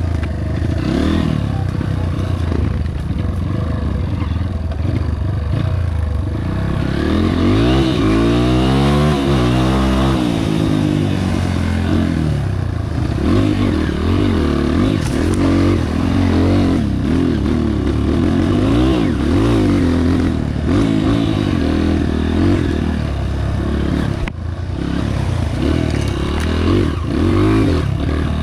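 Honda CRF230 dirt bike's single-cylinder four-stroke engine under way, the revs repeatedly rising and falling as the rider works the throttle and gears over the trail.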